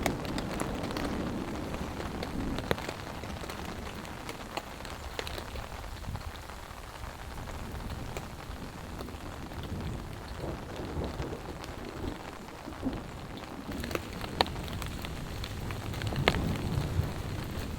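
Steady rain falling on a tarp shelter, with scattered sharp drop hits. Low thunder rumbles at the start and builds again near the end.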